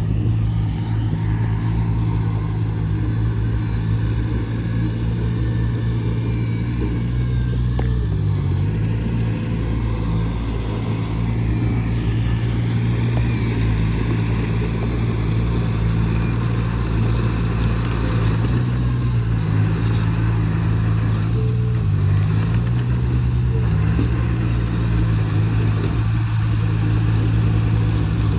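Heavy earthmoving machine's diesel engine running steadily, its pitch dipping briefly twice, about a third of the way in and again about three quarters through.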